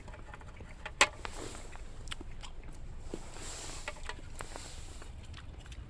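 Light clicks and taps from handling utensils and food while eating freshly grilled scallops, with one sharp knock about a second in.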